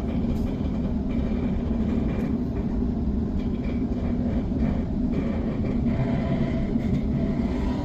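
Sydney suburban electric train running, a steady low rumble of the carriage on the rails heard from inside the carriage.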